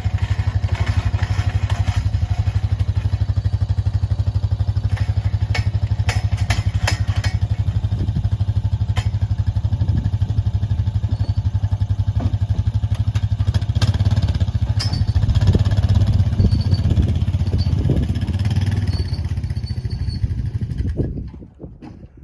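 A sawmill's engine running steadily with some clattering knocks, then stopping suddenly near the end.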